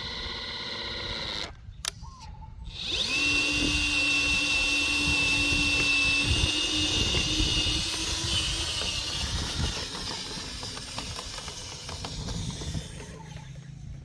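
Small electric motor of a homemade RC dump truck whining at a steady pitch. It starts about three seconds in after a brief drop, then fades away over the second half.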